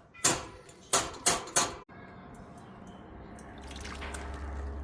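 Water refilling a bird's bath dish: a few sharp knocks and splashes in the first two seconds, then a steady rush of running water that grows a little louder near the end.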